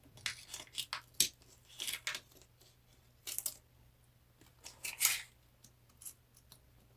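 Short scrapes, clicks and rustles of small-scale handwork as a piece is worked loose inside a papered dollhouse room, about half a dozen of them spread irregularly, with the loudest scrape about five seconds in.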